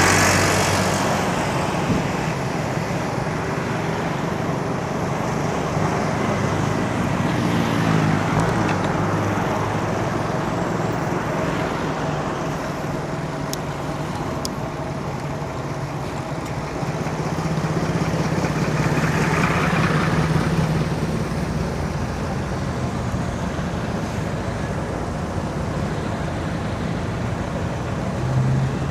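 Road traffic heard from a moving bicycle: a steady hum of motor-vehicle engines and tyre noise, with vehicles passing close and swelling louder right at the start, about eight seconds in, and around twenty seconds in.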